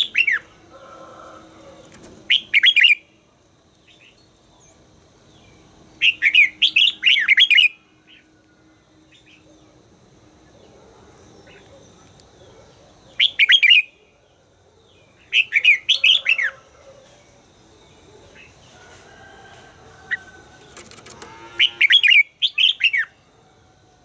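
Red-whiskered bulbul singing: short bursts of quick, gliding whistled phrases every few seconds, about six in all, with pauses between.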